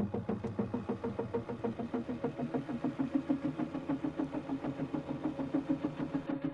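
Cessna 177RG Cardinal's four-cylinder Lycoming engine and propeller running steadily, heard inside the cockpit, with a rapid, even pulsing.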